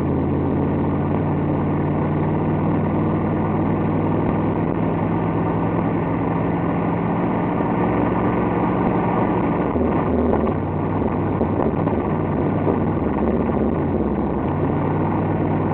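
Small-block Mopar V8 of a Dodge Charger running while driving, heard from inside the cabin with road noise under it. The steady engine note breaks up and shifts about ten seconds in, then settles back near the end.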